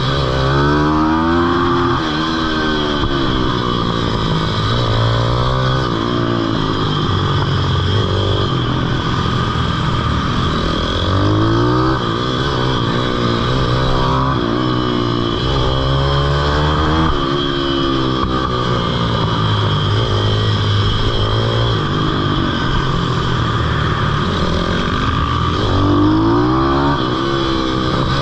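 Pitbike's small single-cylinder engine revving up and falling back over and over as it is ridden hard around a kart track, the pitch climbing, dropping and climbing again every few seconds.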